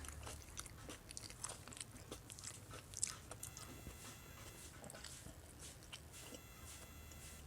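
A person chewing and biting food close to the microphone: an irregular run of small, quick mouth clicks. A faint, high, steady tone comes in twice in the background, about three and a half seconds in and again near the end.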